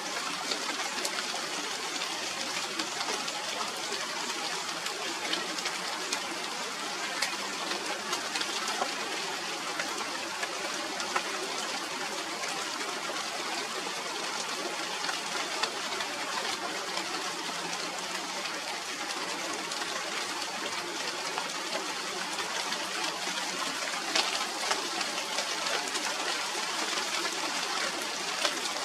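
Steady rain falling on a tree's leaves: an even hiss of rain with many small drip and drop ticks scattered through it.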